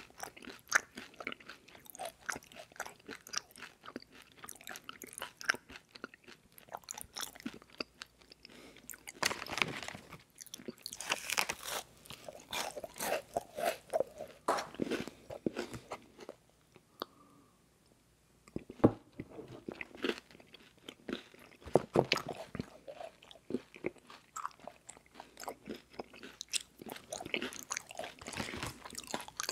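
Close-miked chewing of crispy rice marshmallow cereal bars: irregular crunching bites and wet chewing, with a brief pause just past halfway before crisp crunching resumes.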